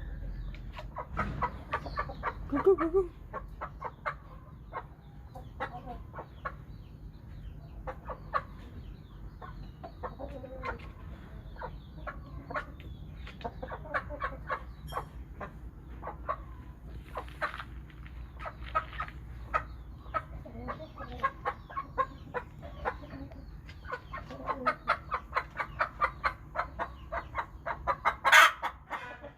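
Thai-Vietnamese hybrid game chickens clucking, a steady stream of short clucks that grows denser in the last few seconds, with one louder sharp call near the end.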